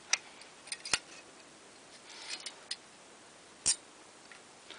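Small metal parts of a box fan motor clicking and knocking as they are handled during reassembly: a handful of sharp clicks, the loudest about one second and three and a half seconds in.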